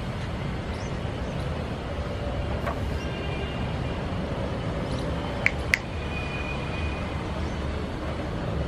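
City street ambience: a steady low rumble of traffic, with two sharp clacks in quick succession a little past the middle.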